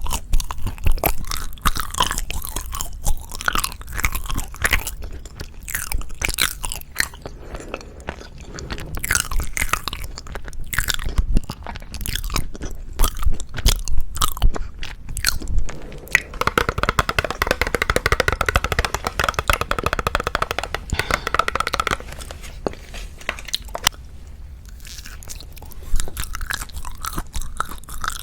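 Close-miked chewing and biting of Japanese wagashi sweets: irregular wet mouth clicks and crunches. A steadier, pitched sound takes over for about five seconds past the middle.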